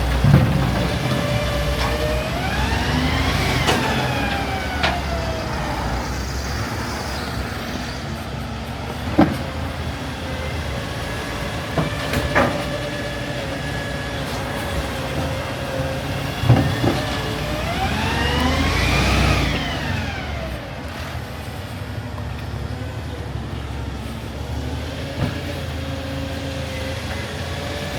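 Garbage truck engine running, revving up and back down twice, with a few sharp knocks in between.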